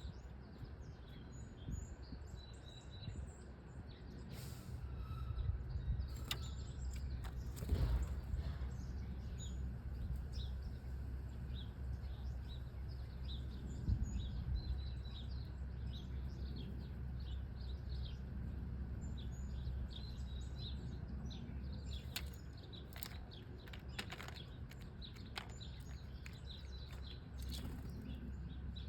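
Many small birds chirping and twittering in quick, overlapping short calls, over a steady low outdoor rumble, with a few brief rushes of noise.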